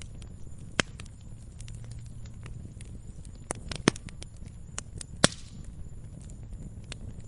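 Campfire crackling: scattered snaps and pops of burning wood over a low steady rumble of the fire. Three sharper pops stand out, about a second in, around four seconds in and about five seconds in, the last followed by a brief hiss.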